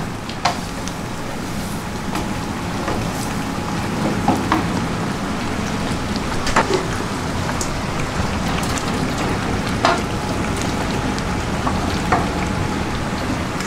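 Food frying in oil in a cooking pan, a steady sizzle, with a few light clinks of a metal utensil against the pan.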